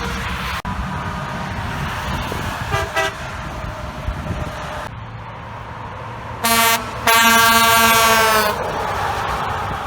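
Semi-truck air horn sounding over highway traffic noise: a brief toot about three seconds in, then a short blast and a longer blast of about a second and a half from about six and a half seconds in.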